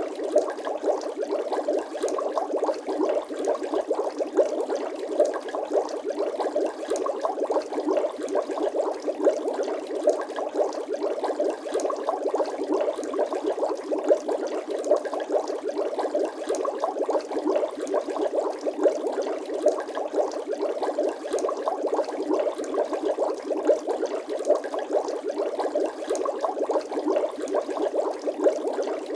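Bubbling water sound effect: a steady, dense stream of small bubbles gurgling and popping.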